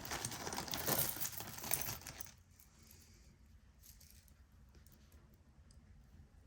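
Small jewelry pieces being handled: about two seconds of dense clinking and rustling, then a few faint light clicks.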